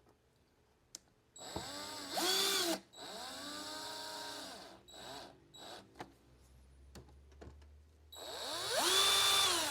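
Electric screwdriver driving screws into the robot vacuum's bumper bracket: several short runs, the motor whine rising in pitch, holding and falling away each time, the last run near the end the longest and loudest.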